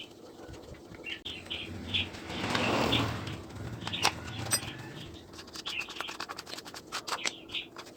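Small birds chirping repeatedly, with scattered light clicks and knocks. A brief rushing noise swells and fades around the third second and is the loudest thing here.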